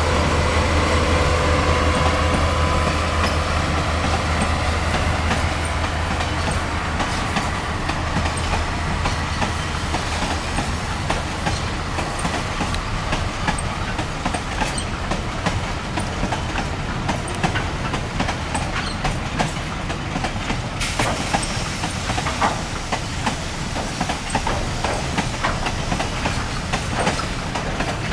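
GE U20C-MP diesel-electric locomotives running past with a low engine drone and a steady whine that fade over the first several seconds. Then a string of empty steel ore gondola wagons rolls by with continuous wheel clickety-clack and loose rattling, with sharper clanks and a brief screech in the second half.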